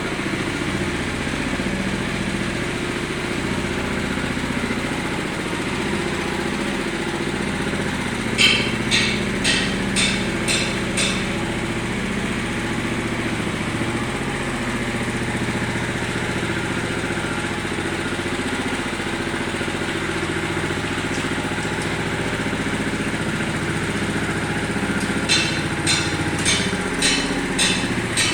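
Small engine of concrete-finishing machinery running steadily while a concrete surface is being flattened. Two runs of sharp taps, about two a second, come in about a third of the way through and again near the end.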